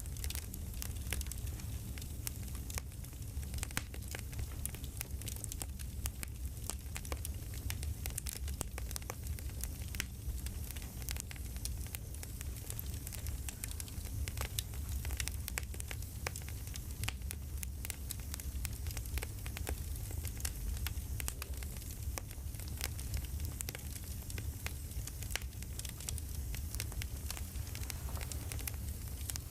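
Campfire crackling: a steady low rumble of burning with frequent irregular pops and snaps.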